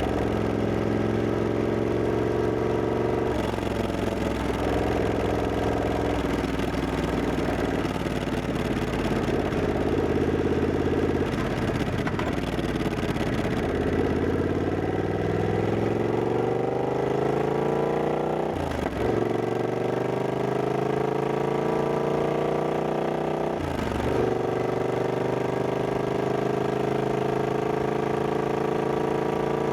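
Triumph Scrambler 1200X's 1200 cc parallel-twin engine running under way. Its note climbs steadily, then drops sharply twice, about two-thirds of the way in and again near the end, as the rider shifts up a gear and pulls again.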